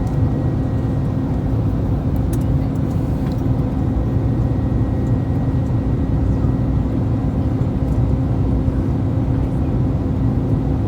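Steady cabin noise inside an Airbus A321-231 airliner: a deep engine and airflow rumble with a constant hum running through it.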